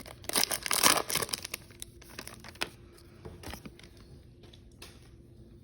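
Baseball card pack wrapper being torn open and crinkled, loudest in the first second, then softer crinkling and a few light clicks as the cards are handled.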